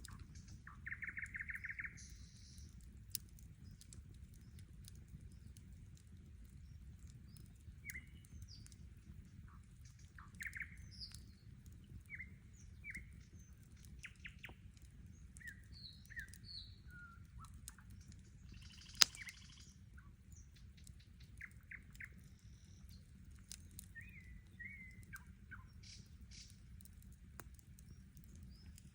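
Songbirds chirping, with short scattered calls and a rapid trill near the start, over a steady low rumble. Campfire crackles, one loud sharp pop about two-thirds of the way through.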